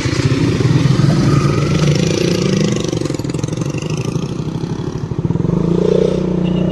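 KTM Duke 200's single-cylinder engine running under way while riding, the engine note easing in the middle and picking up again about five seconds in.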